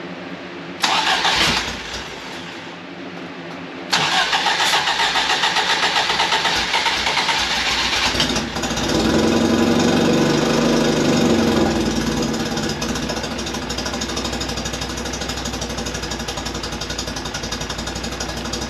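A Fiat X1/9's inline-four engine being started. A brief first crank is followed by a longer crank of about four seconds. The engine catches about eight seconds in, revs briefly, then settles into a steady idle. The engine has not yet been tuned.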